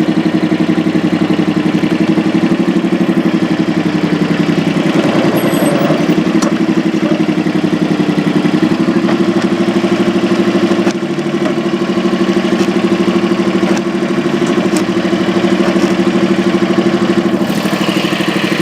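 Tractor engine running steadily at a constant speed, its level dipping briefly about eleven seconds in.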